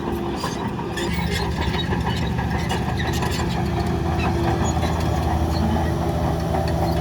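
Heavy diesel engine of earthmoving machinery running steadily, with scattered metallic clanks and knocks over it.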